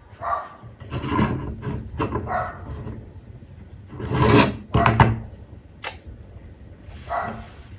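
Scraping and rubbing of wood being worked or slid by hand, in uneven strokes with a few knocks and a sharp click near the six-second mark.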